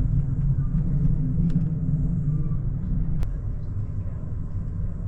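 Steady low rumble of the Amtrak California Zephyr passenger train rolling along the track, heard from aboard the train, with a single sharp click about three seconds in.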